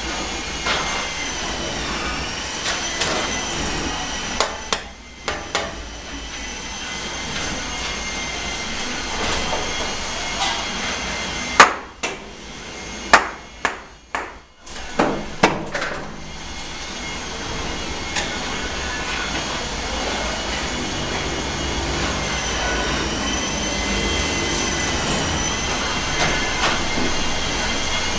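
Handheld electric mixer churning premixed cement mortar in a tub, its motor whining steadily and sagging in pitch now and then under load. A run of sharp knocks comes in the middle while the whine stops.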